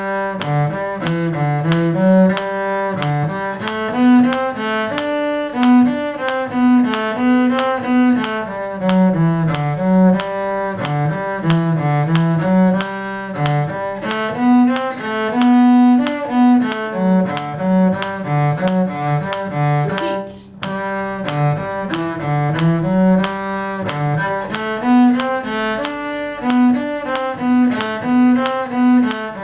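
A bowed string instrument playing a melody line of separate, evenly paced notes in a low register, with a brief break about twenty seconds in.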